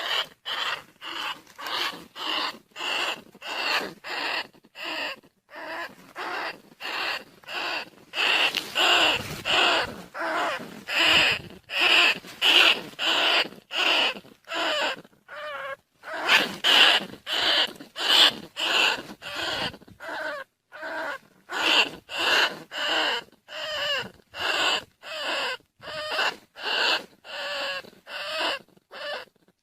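Rice-field rats and bandicoot rats squeaking in an unbroken run of short calls, about two a second. This is a lure call played to draw rats into traps.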